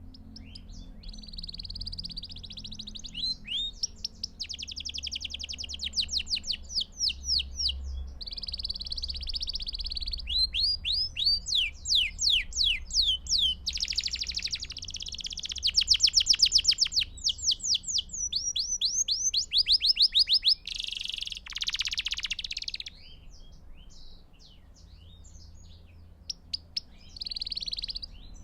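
Belgian canary singing continuously. Its song is a string of fast trills, each a run of quickly repeated high notes, changing from one trill to the next, with a short buzzy rattle about three-quarters of the way through.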